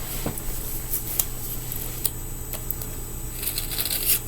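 Fingerboard grip tape being rubbed against a skateboard's grip tape to sand off the overhang: scattered clicks and scratches, with a longer rasping scrape near the end.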